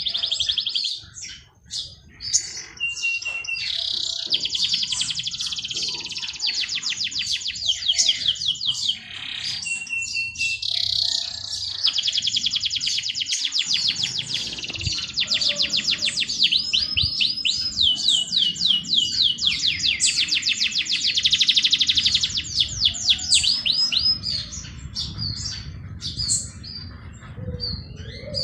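A songbird singing long, rapid, high-pitched trills of repeated notes, each run lasting several seconds, broken by short chirps and brief pauses.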